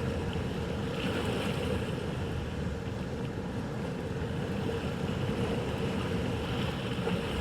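Boat engine running steadily through rough inlet water, with waves and wind noise on the microphone.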